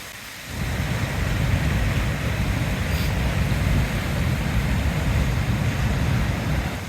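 A gust of wind buffeting the microphone: a loud, rough low rumble that starts suddenly about half a second in and drops away near the end.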